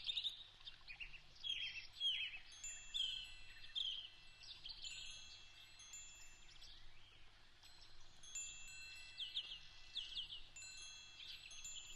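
Faint wind chimes ringing with clear high tones, with small birds chirping in quick falling notes among them.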